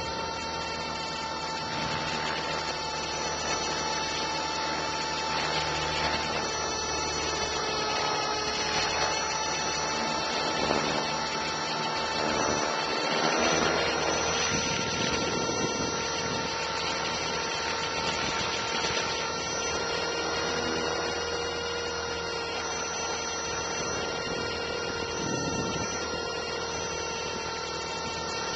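Align T-Rex 450 SE V2 electric RC helicopter in flight, picked up by a camera mounted on its own canopy: a steady whine from the brushless motor and gears over rotor noise. The pitch of the whine shifts between about eight and fourteen seconds in, then holds steady again.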